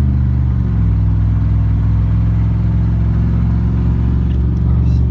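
Ford pickup truck's engine and drivetrain heard from inside the cab while driving. The engine note drops in pitch about half a second in, as at a gear shift, then holds steady; the driver says the transmission is still messing up.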